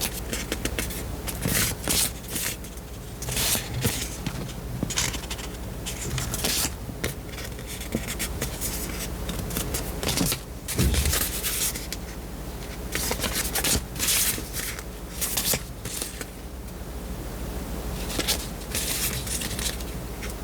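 Paper sticker sheets being handled, with irregular rustling and scraping as sheets are picked up, slid and set down.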